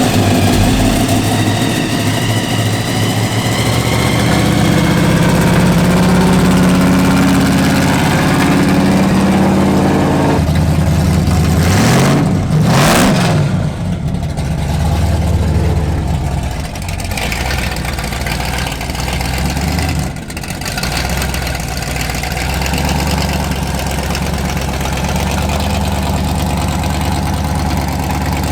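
Car engines idling and revving at a car show, with one engine's pitch rising and falling sharply about twelve seconds in.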